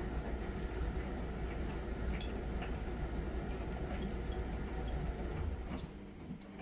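Miele Novotronic W921 front-loading washing machine in its wash phase: a steady motor hum under water sloshing and dripping in the drum, with small clicks. It quietens near the end.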